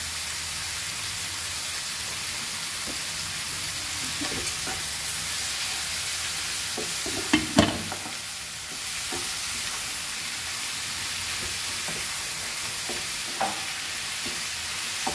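Chopped onions, tomatoes and green chillies with ginger-garlic paste sizzling in hot oil in a kadai, stirred with a wooden spatula. A few scrapes and knocks of the spatula against the pan stand out, the loudest a pair about seven seconds in.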